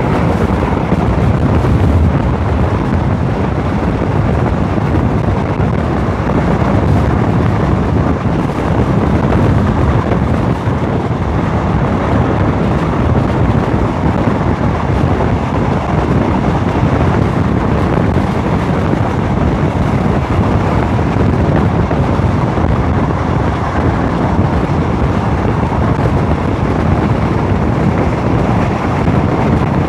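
Wind rushing over the microphone at the open window of a moving passenger train, mixed with the train's steady running noise on the track.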